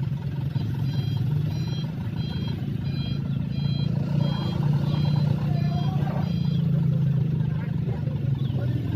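Heavy dump truck's engine running steadily while its reversing alarm beeps about nine times, a little more than once a second, stopping about two-thirds of the way through.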